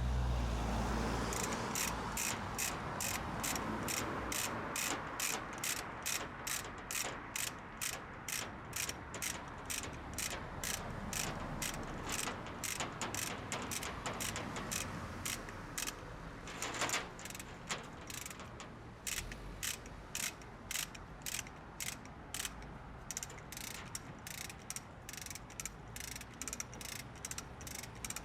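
Ratchet pawl of a hand-operated lifting hoist clicking in an even rhythm, about two to three clicks a second, as a heavy load is hoisted. There is a short pause with one louder knock just past the middle.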